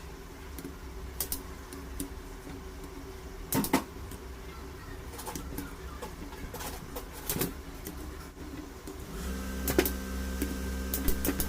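Scattered sharp clicks and knocks of tools on metal during engine repair work, over a steady low hum. Near the end a small machine runs steadily for about two seconds, then winds down.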